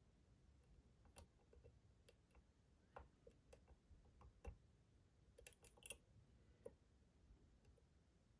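Faint, irregular clicks of lock-picking tools working the pins inside a Schlage Primus Everest lock cylinder, with a quick cluster of several clicks about halfway through.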